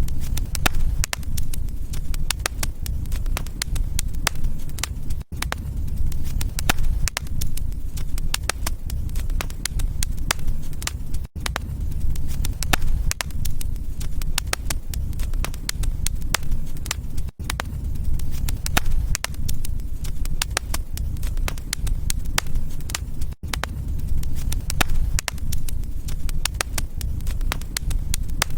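Wood fire in a fireplace crackling, with many sharp pops over a steady low rumble. A brief dip in the sound comes about every six seconds.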